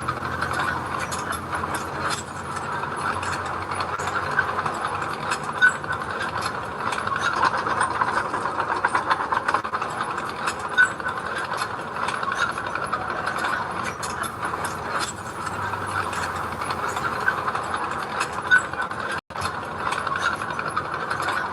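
Mini crawler bulldozer's diesel engine running steadily, with frequent metallic clicks and clanks of its tracks and working parts. The sound cuts out for an instant near the end.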